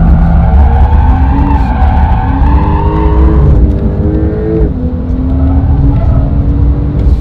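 Brabus 820 Porsche 911 Turbo S's twin-turbo flat-six under hard throttle while the car drifts, with tyres squealing. The revs climb from about two and a half seconds in, then drop sharply just before five seconds.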